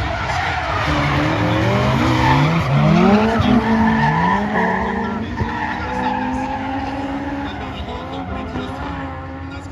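Drift cars on track, their engines revving up and down with tyres screeching. Loudest about three seconds in, then fading.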